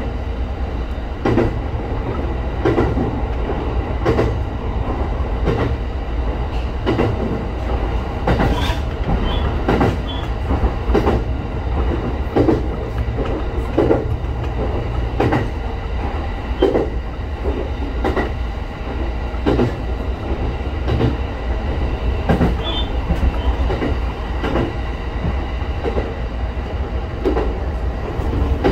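Electric local train running along the line: a steady low rumble with the clack of wheels over rail joints about every second and a half, and a few faint, brief high squeals from the wheels.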